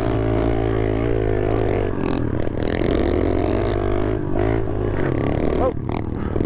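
A 110cc pit bike's single-cylinder engine running under riding load, its revs rising and falling with the throttle, with short dips in the engine note about two and four seconds in and again near the end.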